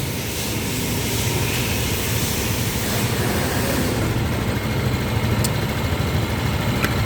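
A steady, low mechanical running sound like an engine, with a faint click or two near the end.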